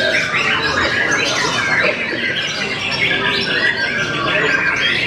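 White-rumped shama singing nonstop, a dense unbroken run of quick, varied whistles, rattles and harsh notes, the full-song "ngedur" of a male in competitive form.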